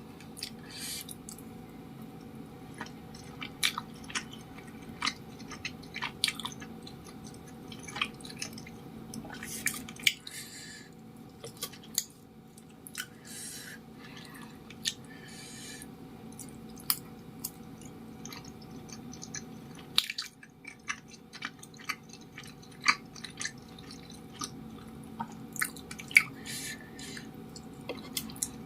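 Close-miked chewing of chewy cilok tapioca dumplings: irregular wet mouth clicks and smacks, over a faint steady hum.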